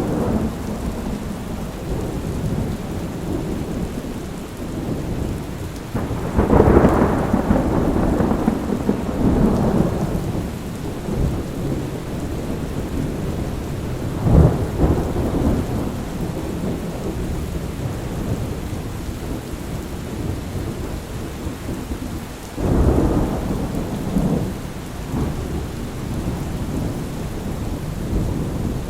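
Steady rain with rolling thunder, loud peals about six seconds in, near the middle and about three-quarters of the way through.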